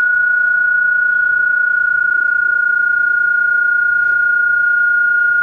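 A loud, steady pure tone held at one unchanging pitch, like a test tone or a long electronic beep.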